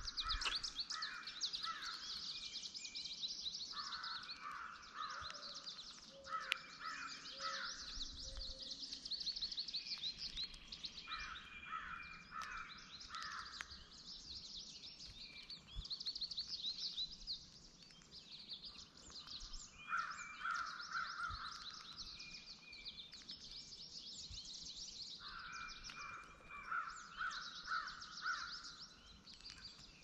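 Wild birds calling: one bird gives series of four to six calls, repeated every few seconds, over a continuous background of rapid high chirping from small songbirds.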